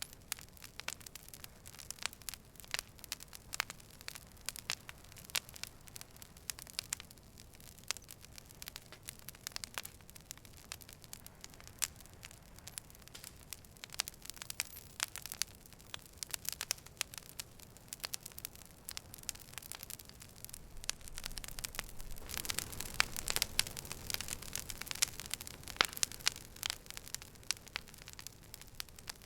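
Campfire burning with dense crackling and sharp pops from the wood. The crackling swells louder for a few seconds near the end.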